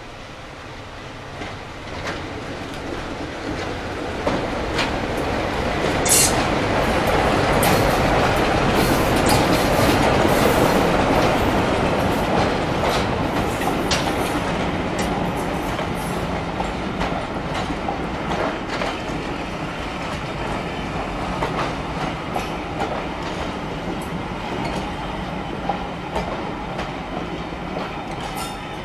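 A diesel locomotive passes close by hauling a train of coaches. Its engine hum builds to a peak about a third of the way in. The coaches follow with a run of clicks and clatter over the rail joints, and the sound slowly fades as the train draws away.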